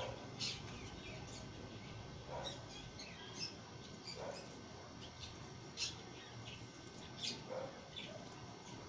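Birds chirping in short, scattered calls, a few at a time, the loudest about half a second, six and seven and a half seconds in.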